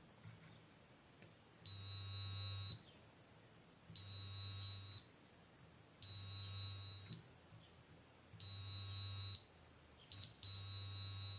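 Digital multimeter's continuity buzzer sounding five times in a high steady tone, each beep about a second long with a short blip just before the last. The probes are being touched across the board's 5 V capacitor line, and the beep signals a short circuit there.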